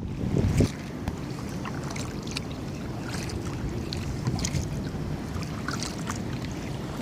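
Water splashing and dripping in small scattered bursts as a kayak is paddled, over wind rumbling on the microphone that is strongest in the first second or so.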